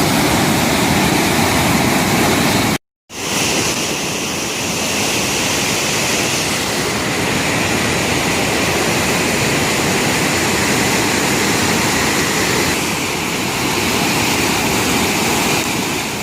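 Floodwater rushing, a loud steady noise of fast-moving water, broken by a brief gap of silence about three seconds in.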